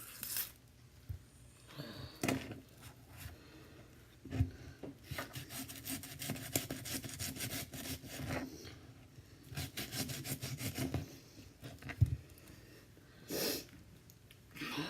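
Knife cutting onions on a cutting board: two long runs of quick, rapid strokes with scattered single cuts between them, and one sharper knock of the blade on the board near the end.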